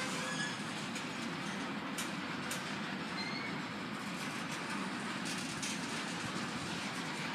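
Covered hopper cars of a grain train rolling past, a steady rumble of steel wheels on the rails. A few sharp clicks about two seconds in and again later, and a couple of brief high wheel squeaks.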